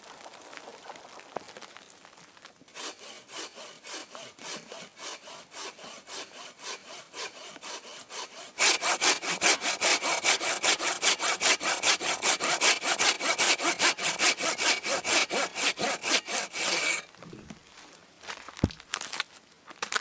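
A hand saw cutting through wood in quick, steady back-and-forth strokes. The strokes start softly, become much louder about halfway through, then stop, followed by a few light knocks.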